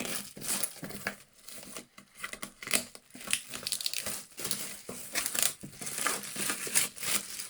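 Plastic shrink-wrap being torn and peeled off a boxed soundbar, an irregular crinkling and crackling that goes on throughout.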